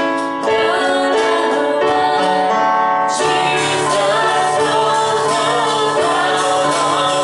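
Congregational gospel worship music: singing over instrumental accompaniment, growing fuller about three seconds in.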